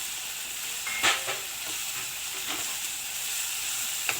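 Onion, tomato and capsicum masala sizzling in hot oil in a kadhai while it is stirred, with a sharp knock about a second in and a smaller one near the end.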